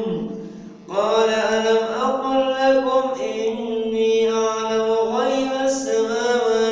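A man's voice reciting the Quran in melodic tajweed style, drawing out long held notes that bend slowly. It trails off at the start and comes back in about a second in.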